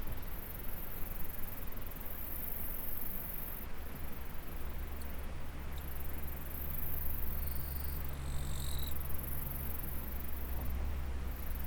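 Insects chirring steadily at a high pitch over the even rush of a stream, with a low rumble that grows about four seconds in. Two short high chirps sound just past the middle.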